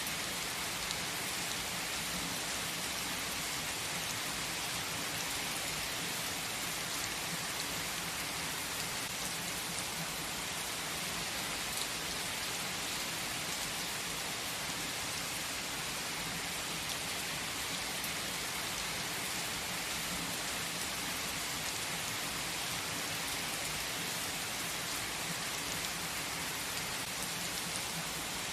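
Steady rain falling, an even, unbroken hiss that holds at the same level throughout, with no thunder.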